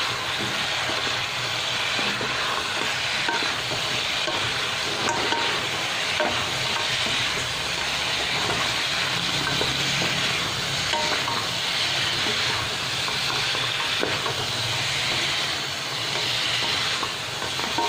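Fried chicken pieces sizzling in thick tamarind sauce in a wok over high heat, stirred and tossed with a wooden spatula as the sauce reduces to a sticky glaze.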